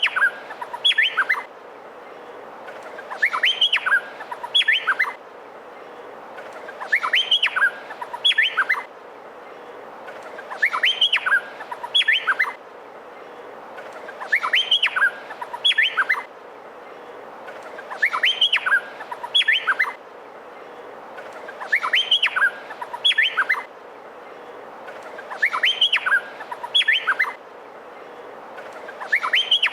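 Male Meliphaga honeyeater (cucak pantai) singing loudly. The same short phrase of quick rising and falling whistled notes repeats about every four seconds, over a steady hiss.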